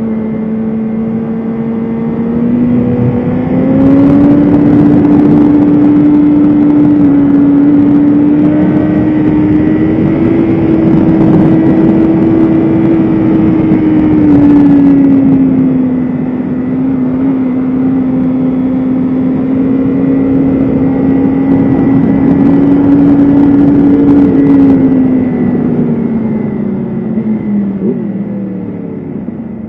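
BMW S1000RR inline-four engine running hard at high revs on track, with wind rush. The engine note steps up in pitch about four seconds in, holds with small rises and dips, then falls away over the last few seconds as the bike slows.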